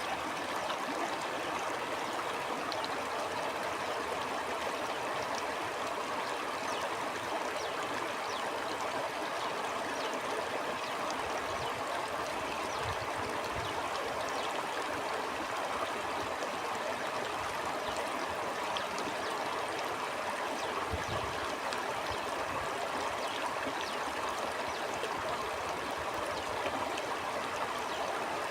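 A stream flowing, a steady rushing babble of water at an even level, with brief low rumbles about halfway through and again about three quarters through.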